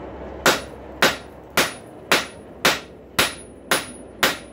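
Blacksmith's hammer striking a heated rail spike on an anvil, drawing out the steel: eight evenly spaced blows, about two a second, each ringing briefly.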